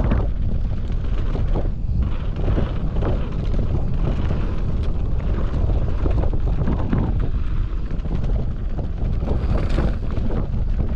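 Wind buffeting the microphone on a mountain bike descending a bike-park trail, with a steady low rumble and many irregular knocks and rattles from the bike over the bumpy ground.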